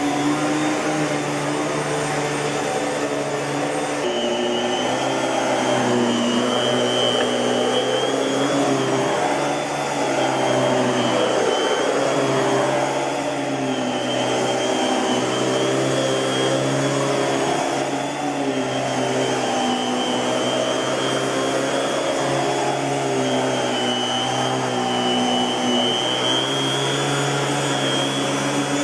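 Miele S658 Blue Moon canister vacuum cleaner running steadily, a continuous motor and airflow hum whose pitch wavers slightly now and then.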